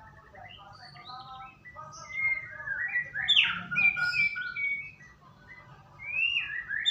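White-rumped shama singing: a varied, rapid run of whistled phrases with quick rising and falling notes. It starts softer, grows loudest in the middle, dips briefly, and swells again right at the end.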